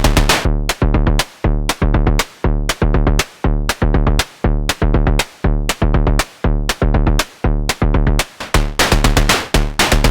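Analog percussion synthesizer playing a sequenced drum pattern: pitched hits, several a second, each with a bright top that falls away quickly as the filter envelope closes. The hits are packed densely at first, thin out to a sparser pattern about a second in, and grow dense again near the end.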